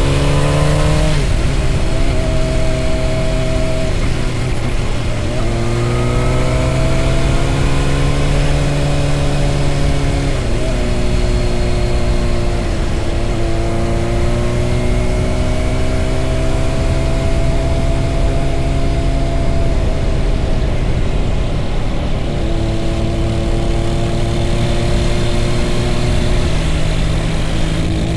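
Honda CBR600RR sport motorcycle's engine under way. Its pitch climbs slowly under throttle and drops back sharply about five times, over steady wind and road rumble.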